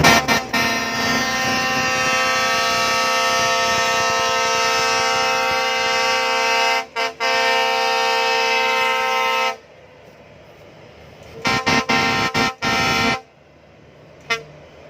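Horn fitted to a rice combine harvester sounding one long, steady blast lasting about nine and a half seconds, broken twice for an instant about seven seconds in. It then gives a quick run of short toots, with one last tiny toot near the end.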